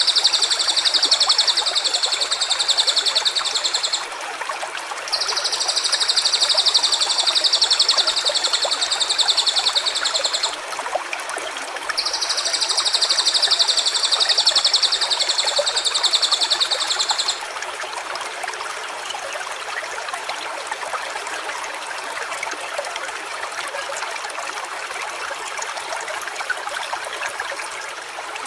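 Stream water running steadily, overlaid by a high, rapid buzzing trill repeated three times, each about five seconds long with a short pause between. After the third trill ends, about two-thirds of the way through, only the stream is left.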